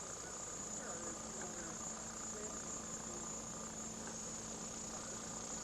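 Steady, high-pitched insect trill, like crickets, with a low steady hum joining under a second in.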